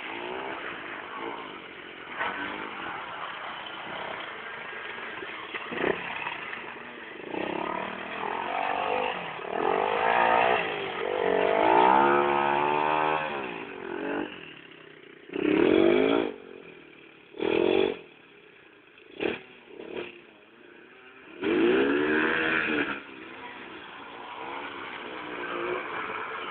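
Small motocross bike engines revving, their pitch rising and falling with the throttle. Several bikes pass close by in short, loud bursts in the second half.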